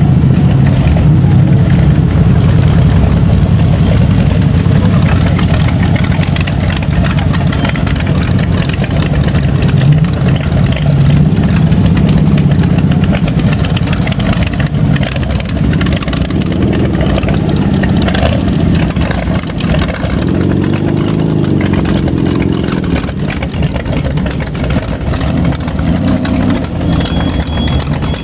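Motorcycle and car engines running as they pass at low speed, with throttle blips and revs rising and falling in the middle and later part.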